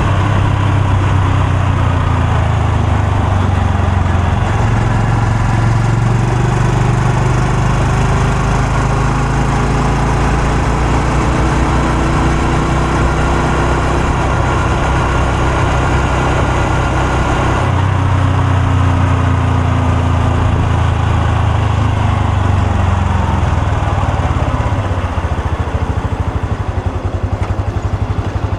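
Honda Super Cub C125's air-cooled single-cylinder four-stroke engine and exhaust running on the move, its speed rising and falling, with a change in engine note about two-thirds through. Near the end it drops to idle, the single cylinder's firing pulses separately audible.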